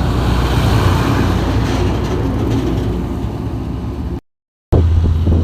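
Heavy truck engine running steadily under load with road noise. It cuts out abruptly for about half a second around four seconds in, then a steadier low engine hum carries on.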